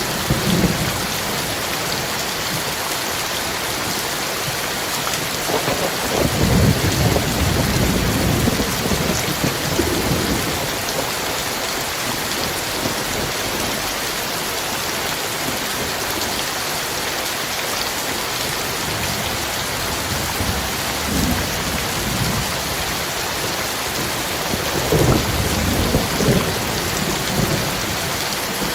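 Heavy rain falling steadily in a thunderstorm, with low rolling rumbles of thunder near the start, again from about six to ten seconds in, and once more near the end.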